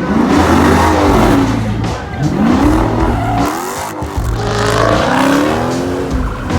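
Car engine revving repeatedly, its pitch climbing and dropping back several times over a steady low drone.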